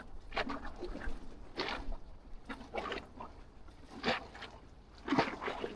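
Small waves lapping and slapping irregularly against the jetty, in short splashy bursts.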